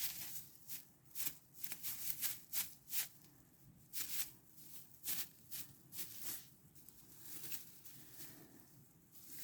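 Close rustling and crinkling in quick, irregular bursts, a couple a second with short pauses, easing to a softer rustle for the last couple of seconds.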